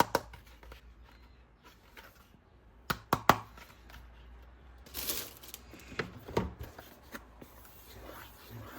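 Hands handling plastic toy parts and packaging: scattered sharp clicks and snaps, with a quick cluster about three seconds in, and a brief crinkling rustle about five seconds in.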